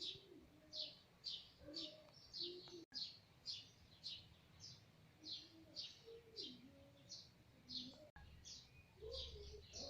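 A small bird chirping over and over, faint, about two short high chirps a second.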